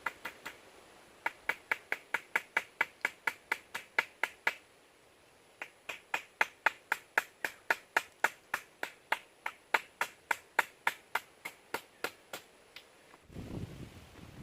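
A rapid, even series of sharp taps, about four a second, in two runs broken by a pause of about a second. A few stray taps come before and after.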